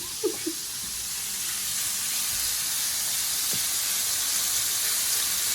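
Shrimp sizzling in a hot frying pan: a steady hiss that swells a little over the first couple of seconds, then holds.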